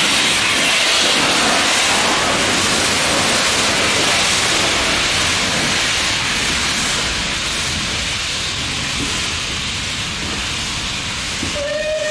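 Steam locomotive hissing loudly, a steady rush of escaping steam that slowly eases off. A short steady tone sounds near the end.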